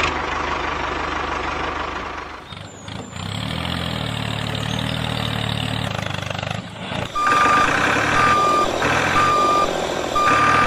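Vehicle engine running steadily, then a reversing alarm starting about seven seconds in, beeping about once a second over the engine.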